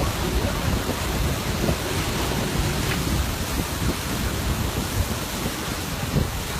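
Stormy weather outdoors: a steady rushing noise with a low rumble underneath.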